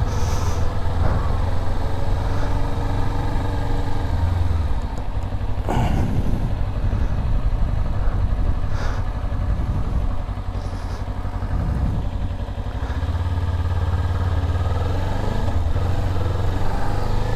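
Motorcycle engine running as the bike is ridden, with a steady low rumble of engine and wind on the microphone and a sharp knock about six seconds in.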